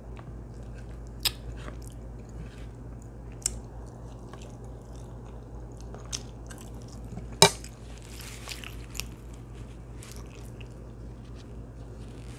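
Close-miked chewing of a soft ground-beef, rice and cheese bell pepper casserole, with scattered sharp wet mouth clicks; one louder click comes about seven seconds in.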